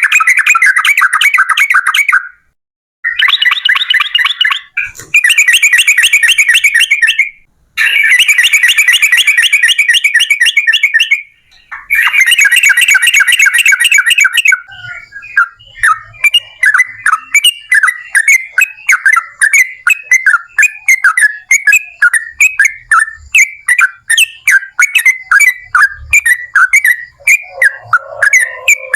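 Yellow-vented bulbul (trucukan) singing its long rapid rolling song in bursts of two to three seconds with short pauses, then from about halfway a looser run of quick separate chirping notes, about three a second.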